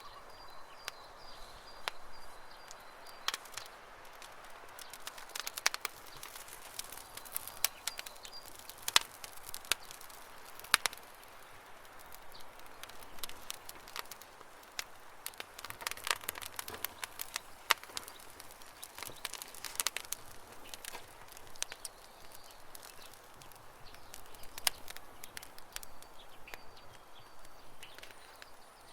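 Campfire burning, the wood crackling with irregular sharp pops and snaps, a few standing out louder. Birds chirp faintly in the background now and then.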